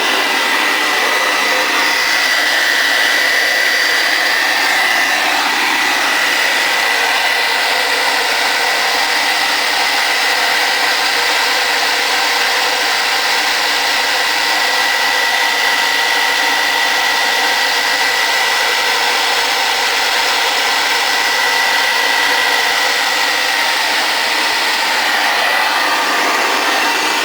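Hoover Convertible Model 33 upright vacuum cleaner running steadily, its motor and fan giving an even rushing noise with a steady high whine.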